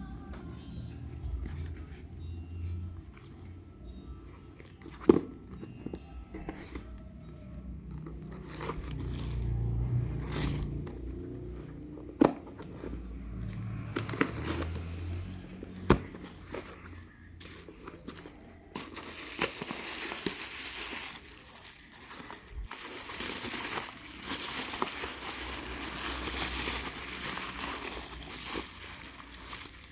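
Packaging being unwrapped by hand: plastic crinkling and tearing, with a few sharp knocks and clicks. The crinkling grows denser and louder in the second half.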